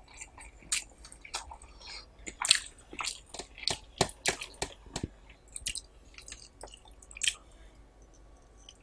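Close-miked eating: wet chewing and lip smacks of curry and rice eaten by hand, in irregular short clicks and squelches, busiest around the middle.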